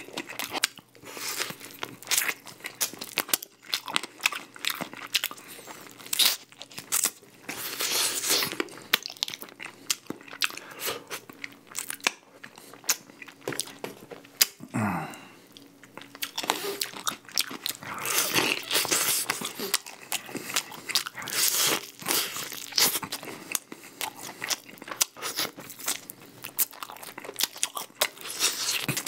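Close-miked crunching and chewing of crispy-coated baked chicken, repeated crackly bites and chews throughout. A brief falling tone sounds about halfway through.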